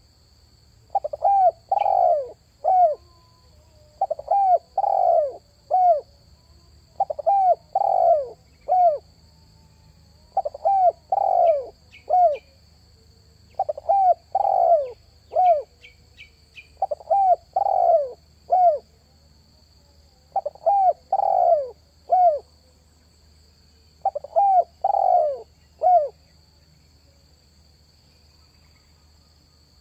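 Spotted dove cooing, repeating a short phrase of three to four falling coos about every three seconds, eight times, with a pause near the end. Faint high chirps from other small birds come through in the middle.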